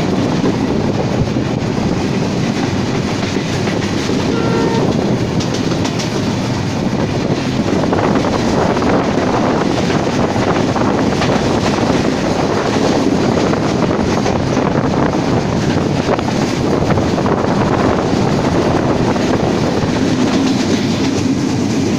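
Passenger train running at speed, heard from an open carriage window: a steady rumble with the wheels clattering over the rail joints.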